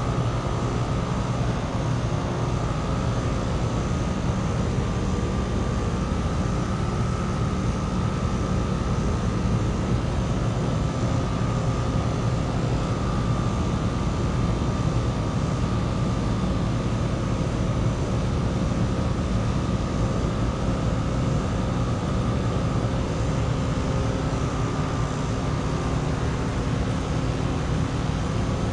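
Outdoor heat pump units running: a steady, unchanging drone with a thin constant whine above it.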